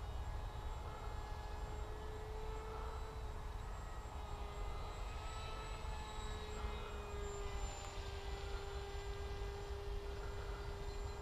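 Electric motor and propeller of a Bixler RC plane in flight, a steady thin whine whose pitch dips slightly about halfway, over a low rumble.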